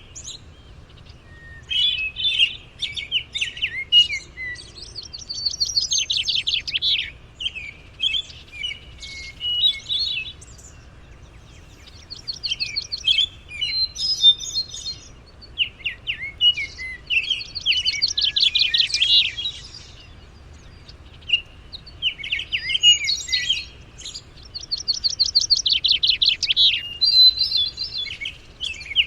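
Songbirds singing and chirping: a string of fast, high trilled phrases, each a second or a few seconds long, with short pauses between.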